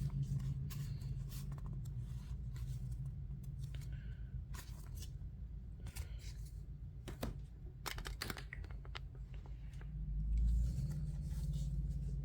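Trading cards and their plastic packaging being handled and sorted by hand: scattered small clicks, taps and rustles over a steady low hum, with a brief low thump about ten seconds in.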